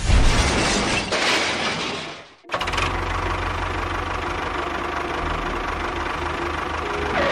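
A dense mechanical noise that cuts off sharply about two and a half seconds in. It is followed at once by an engine running steadily with a low, even rumble.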